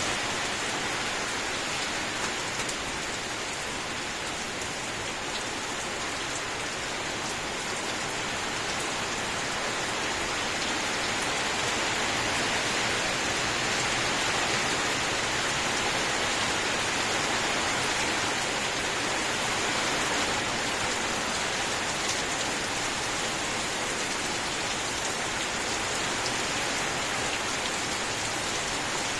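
Steady rain falling, an even, continuous hiss of rain with no breaks or thunder.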